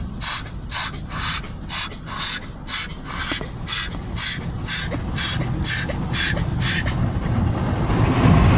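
Automatic car wash spray jets pulsing against the car in an even rhythm of hissing bursts, about two or three a second, heard from inside the car during the soak stage. Near the end the pulses give way to a steadier, heavier rush of spray that grows louder.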